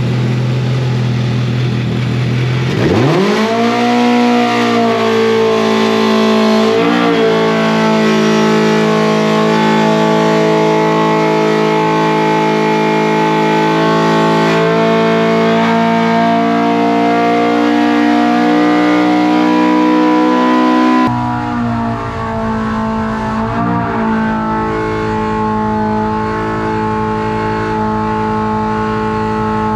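Polaris RZR Pro R engine breathing through a 3-inch straight-through performance exhaust, going from idle to high revs about three seconds in and then held at a steady high pitch under full throttle on a dyno, with a brief dip about seven seconds in. The tone changes abruptly about two-thirds of the way through, then holds steady high revs again.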